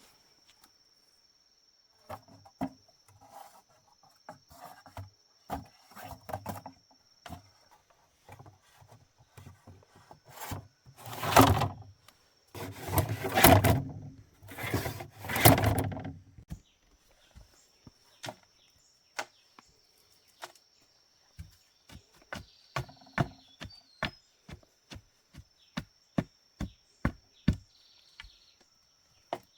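Irregular knocks and rubbing, with a few seconds of loud rough scraping in the middle and a quick run of sharp knocks near the end, over a thin steady high insect drone.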